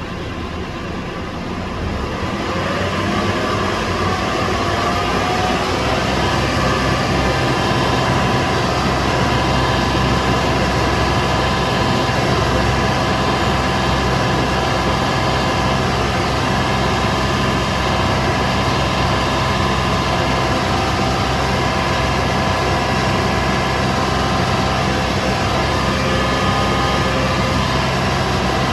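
Toyota 4Runner's 4.0 L V6 engine and exhaust heard from inside the cabin. Over the first few seconds it rises in pitch and grows louder, then runs steadily.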